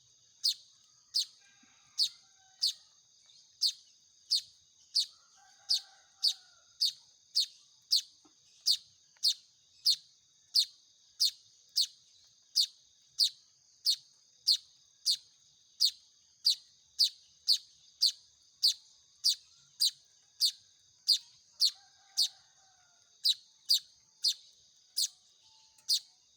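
Weaver (manyar) chick calling: one short, sharp high chirp repeated at very even spacing, a little under two a second, over a steady high hiss.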